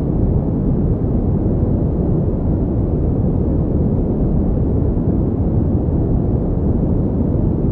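Steady pink noise: a continuous, even deep hiss with little treble and no change.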